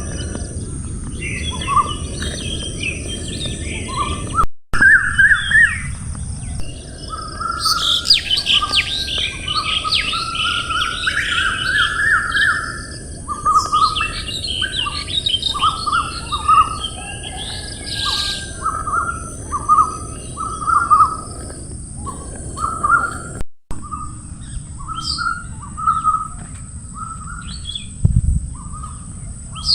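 Several birds calling and singing: short repeated chirps throughout, with a dense burst of high chattering song through the middle, over a steady high hiss. The sound drops out briefly twice, at edit cuts.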